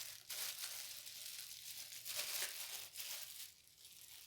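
Crinkly plastic packaging rustling and crackling as achar is scooped out, fading near the end.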